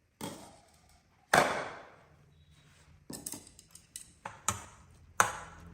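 Kitchenware knocking and clinking: one loud clack with a short ring about a second in, then a quicker run of smaller knocks and clinks in the second half.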